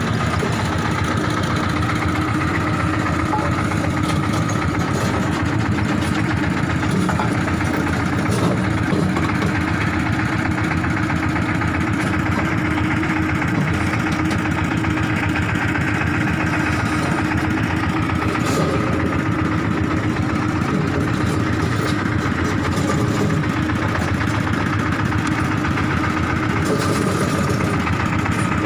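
Engine idling steadily, an unchanging hum with no revving.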